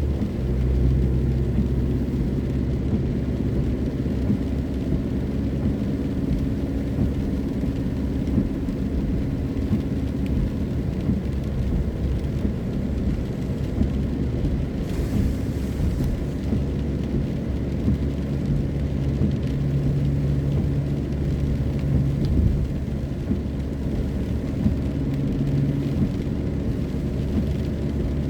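Car driving on a wet road in the rain: a steady low engine and road rumble whose hum changes pitch now and then with speed. A brief hiss comes about halfway through.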